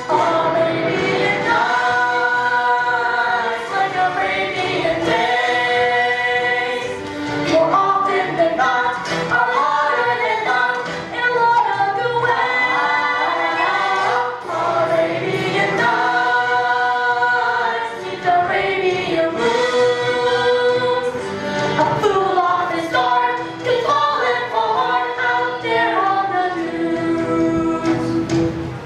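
A young stage cast singing together in chorus over musical accompaniment, a show tune from the musical, breaking off abruptly at the end.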